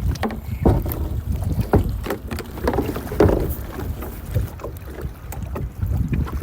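Strong wind rumbling on the microphone of a kayak on choppy sea, with irregular knocks and slaps of water against the hull.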